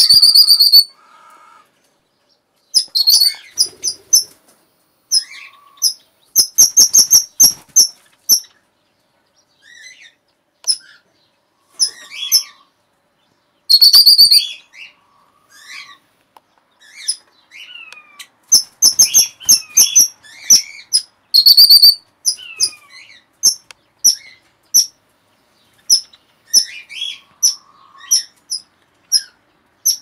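Aviary birds calling: loud, very high-pitched chirps in quick runs, repeated every few seconds, with short gliding whistles in between.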